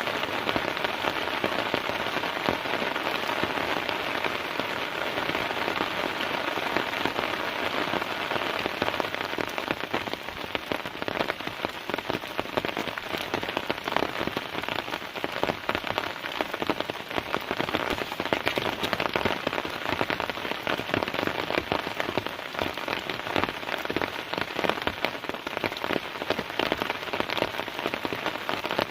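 Heavy rain falling steadily, with many close individual drop hits through the dense wash of rain.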